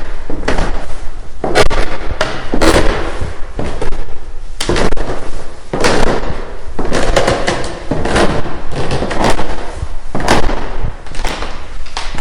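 Footsteps on wood: a steady walk of heavy, knocking steps, about one to two a second, often falling in close pairs.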